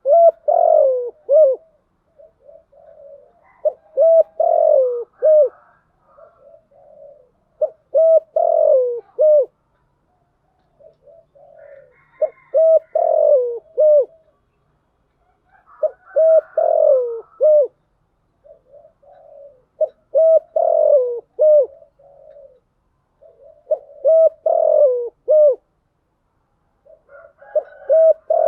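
Spotted dove cooing. Each phrase is a few soft notes followed by three or four louder coos, and the phrase repeats about every four seconds. This is a lure call (gáy gọi and thúc gù, credited to a hen) played to draw wild males in.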